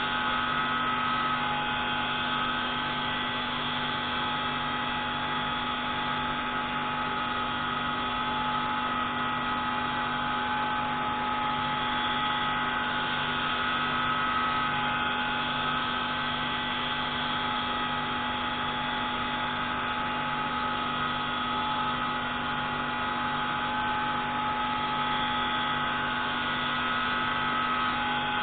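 Pneumatic grinding tool running steadily as it grinds a marine-engine intake valve: an unbroken machine sound holding several steady tones over a low pulsing hum.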